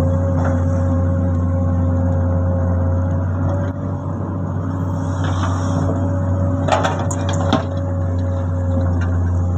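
Komatsu excavator's diesel engine running steadily under a steady whine, with a short burst of clattering knocks about seven seconds in.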